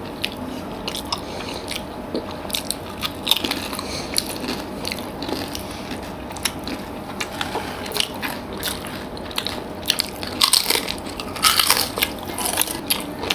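Close-miked chewing of soft, syrup-soaked rasgulla: wet mouth smacks and small clicks, busier near the end.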